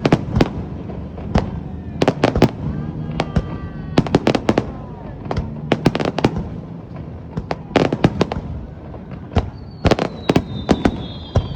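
Aerial fireworks bursting in a rapid, irregular series of sharp bangs and crackles, bunched in volleys. A high, slightly falling whistle comes in near the end.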